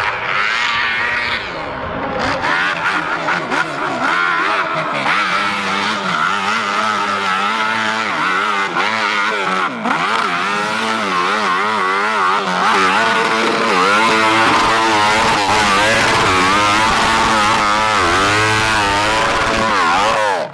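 Racing motorcycle engines revving hard, their pitch climbing and dropping again and again through gear changes, with more than one machine running at once. The sound cuts off suddenly at the end.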